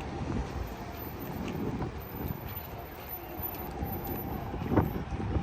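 Gusty wind buffeting the microphone over a steady hiss of heavy rain, with a sharp knock about five seconds in.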